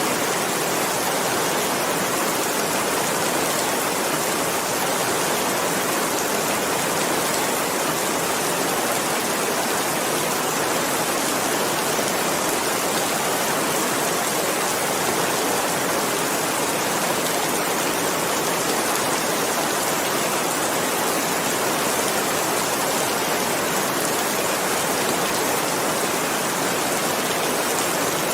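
Steady, heavy rain falling, an even unbroken hiss of drops with no distinct patter or thunder.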